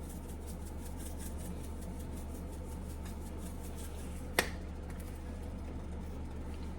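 Lemon pepper seasoning shaken from a shaker into the sauce: a run of faint, rapid ticks, then a single sharp click about four and a half seconds in, over a steady low hum.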